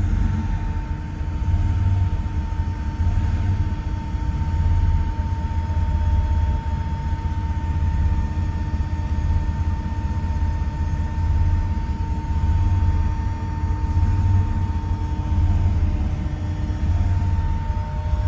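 1989 Porsche 911 Turbo's air-cooled, turbocharged flat-six idling: a continuous low rumble that swells and eases every second or two, with a faint steady high tone above it.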